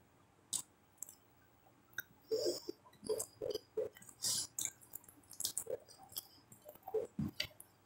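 A person chewing soft food with wet mouth noises and lip smacks, a few faint clicks at first, then irregular smacks and clicks from about two seconds in. She is eating fish moqueca and rice by hand.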